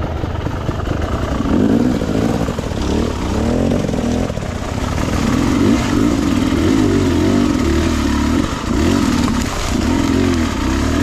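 Beta 300RR two-stroke dirt bike engine under way, revving up and down with the throttle in repeated rising and falling surges.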